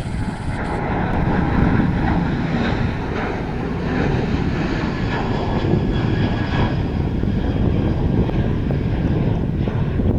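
Airliner engines running, a steady loud rumble with a faint whine over it.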